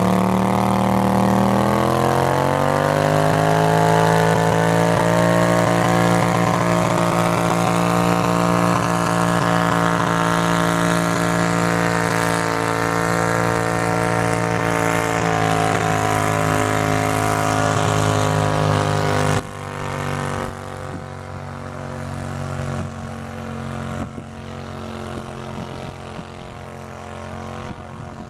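Garden tractor engine revving up and running hard at high speed under load, then dropping off suddenly about 19 seconds in, leaving a quieter, steady engine sound.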